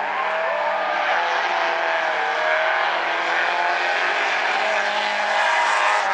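Engines of several Stinger-class figure-8 race cars running together on the track: a steady drone of overlapping engine notes, each rising and falling slightly.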